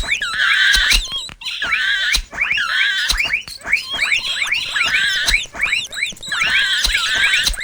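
Mouse squeaking sound effect: rapid, overlapping high-pitched squeaks and chirps running on continuously, with a sharp click now and then.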